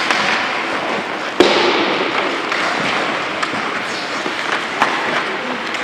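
Ice hockey play on a rink: a steady hiss of skates on the ice, with one sharp bang about a second and a half in and a couple of lighter clacks later.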